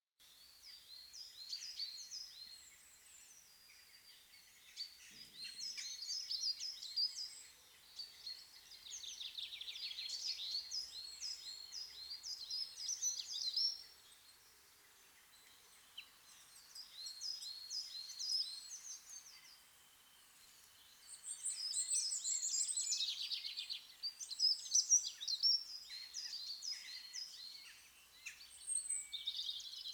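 Several birds chirping and singing in quick repeated chirps and trills, in stretches separated by short lulls.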